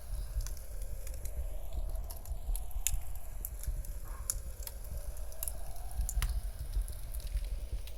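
Wood fire crackling, with sharp irregular pops over a low steady rumble, and a faint wavering howl of blizzard wind behind it.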